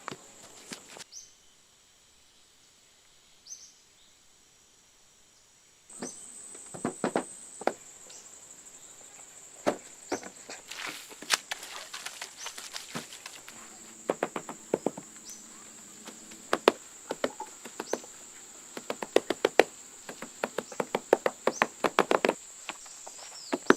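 Insects trilling steadily at a high pitch, over a series of irregular knocks and chopping-like impacts that start about six seconds in and come in quick runs.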